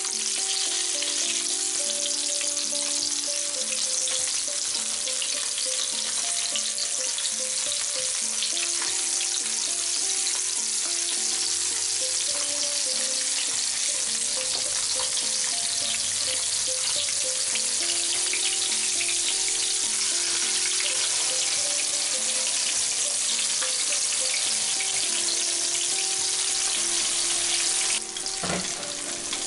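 Flour-coated tofu cubes frying in hot oil in a pan: a steady, loud sizzle that drops off suddenly near the end. Soft background music with held notes plays beneath it.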